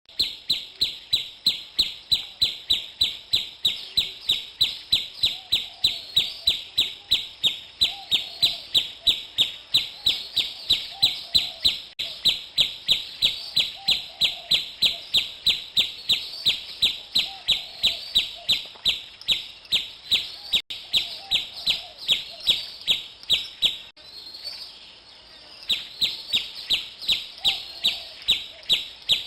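A bird chirping over and over in a fast, even rhythm, about three short high chirps a second, with a brief pause near the end before the chirping resumes.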